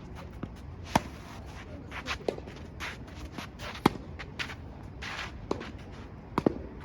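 Tennis rally: sharp pops of the ball struck by racket strings, one every second or two, with softer thuds of the ball bouncing and shoes scuffing on the court between the hits.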